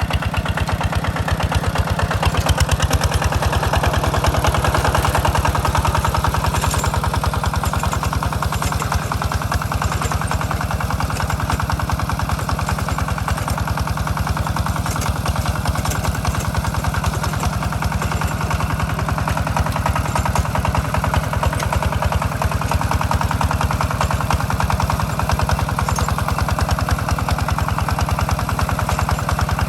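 Hinota tractor engine running steadily with an even, rapid firing beat while plowing a rice paddy.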